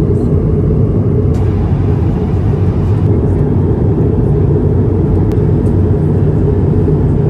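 Steady in-flight cabin noise of an Airbus A220-300, airflow and its Pratt & Whitney PW1500G geared turbofan engines making an even low rumble, with a few faint clicks.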